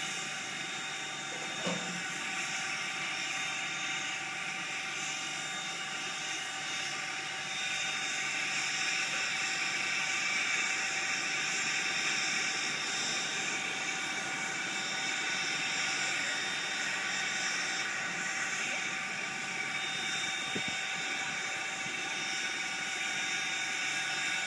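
Strasburg Rail Road No. 90, a 2-10-0 Decapod steam locomotive, standing with a steady hiss and several constant whining tones. There is a brief click about two seconds in.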